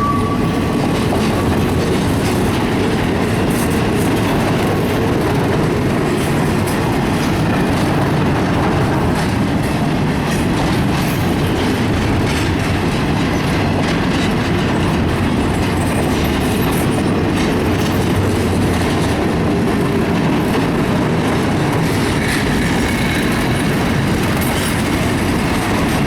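Freight cars of a CSX mixed freight train rolling past at close range: a steady, loud rumble of steel wheels on rail with clickety-clack over the rail joints.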